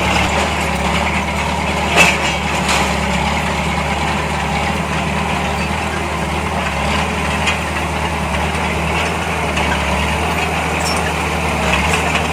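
Heavy diesel earthmoving machinery running steadily, with a single sharp metallic clank about two seconds in.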